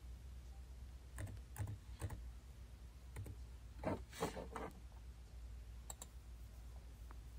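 Slow, faint typing: a few separate key taps, a quicker run of taps about four seconds in, and one more tap near the end, over a steady low hum.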